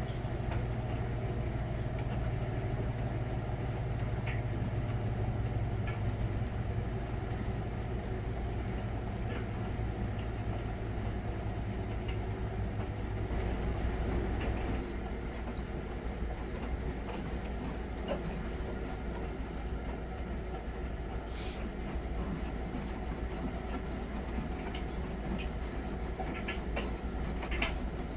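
Miele Novotronic W921 front-loading washing machine running mid-wash, a continuous rumble with a few sharp clicks. A low steady hum stops about halfway through.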